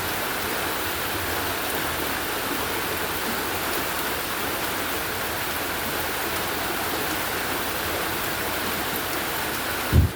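Heavy rain and rushing storm runoff water making a steady rushing noise, with a short low thump just before the end.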